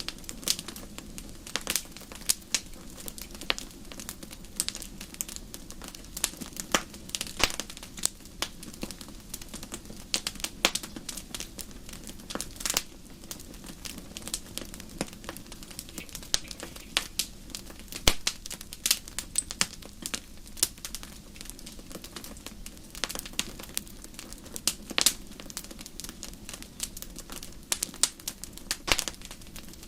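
Wood fire crackling, with irregular sharp snaps and pops over a steady low hiss of the burning.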